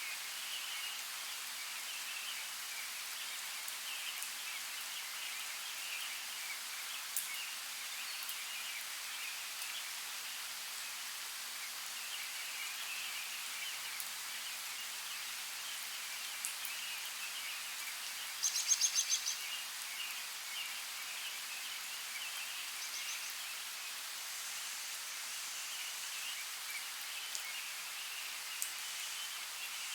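Forest ambience: a steady rush of creek water with small birds chirping throughout. A little past the middle comes one quick, high, rapid trill of a bird, the loudest sound here.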